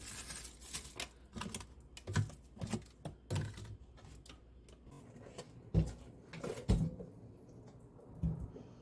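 A series of irregular clicks and knocks, with a few heavier thuds in the second half.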